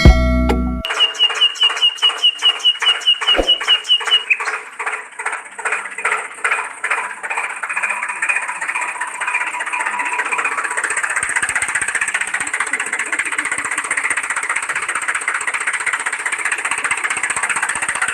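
Engine sound of a mini tractor starting up: a fast, even chugging for a few seconds that loosens and then settles into a steady running hum.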